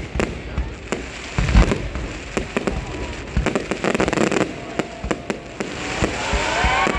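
Aerial fireworks going off in a quick, irregular string of bangs and crackles, with a heavier deep boom about one and a half seconds in. People's voices rise near the end.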